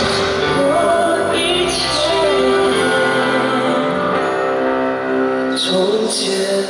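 Live concert music with singing: a pop song with held sung notes over the accompaniment.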